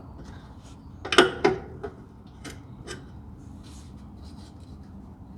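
Metal wrench clinking and scraping against engine bolts while trying to fit it onto them, with a few sharp clinks about a second in and lighter taps after.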